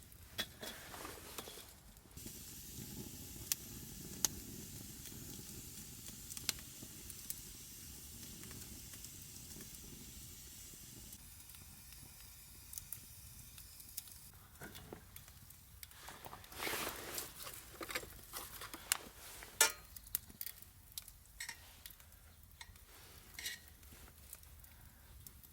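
Food sizzling in a frying pan, a steady hiss with small pops that dies away after about twelve seconds; scattered clicks and taps follow.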